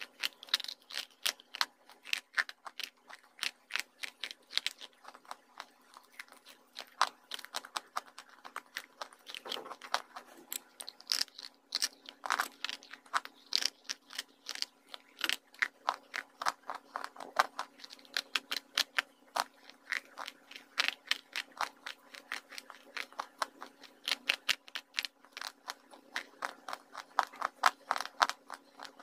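Close-up crunching and chewing of white slate-pencil pieces coated in clay paste: a dense, steady run of sharp, crisp crunches, several a second, over a faint steady hum.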